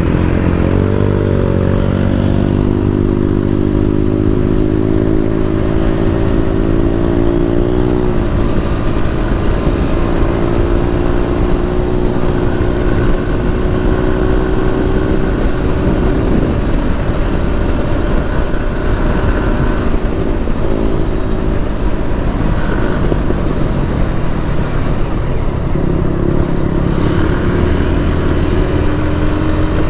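Motorcycle engine running under way, its pitch climbing in the first couple of seconds, holding steady, dropping about eight seconds in, and rising again near the end as the throttle and gears change.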